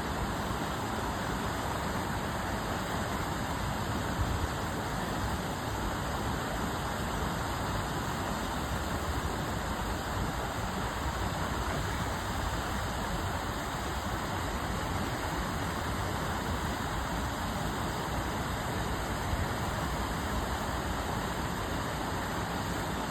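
Backyard waterfall: water rushing and splashing in a steady, even rush.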